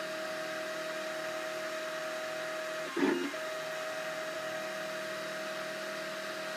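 Cubify 3D printer running mid-print: a steady motor whine over a hum. About three seconds in, a brief louder whirr of motor movement lasts about half a second, then the steady whine resumes.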